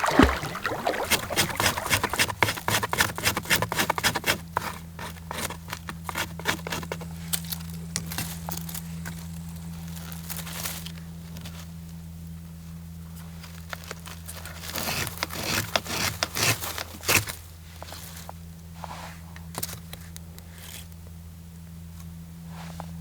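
Things being handled close up: rapid scraping and clicking for about the first ten seconds, and again briefly around fifteen seconds in, over a steady low hum.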